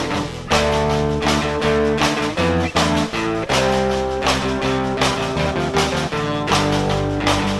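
Instrumental outro of a country-rock song: guitar-led band with bass and a steady beat, no singing.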